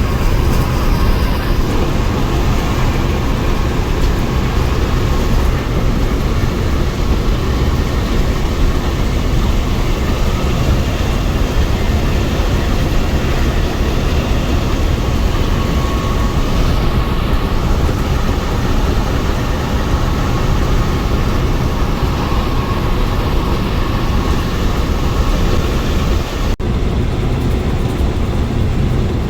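Scania-engined coach on the move: a steady, loud mix of low engine rumble and road noise, broken by a brief cut near the end.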